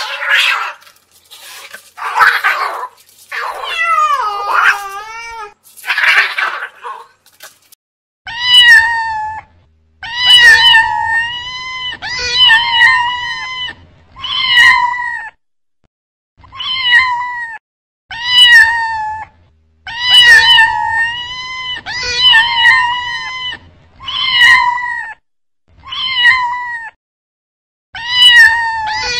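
Domestic cats meowing over and over: a few drawn-out, wavering meows in the first seven seconds, then a run of short, similar meows about one a second from about eight seconds in.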